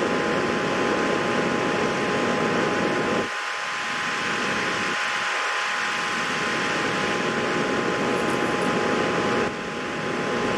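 Steady whirring of a fan, with a constant hum of two thin tones over it. The noise drops abruptly about three seconds in and again near the end, building back up each time.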